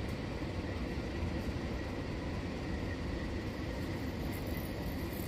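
Passenger coaches of a departing train rolling along an elevated viaduct: a steady low rumble.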